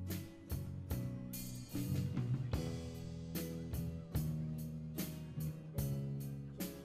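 Live rock band playing an instrumental passage: a drum kit keeps a steady beat over sustained electric guitar chords.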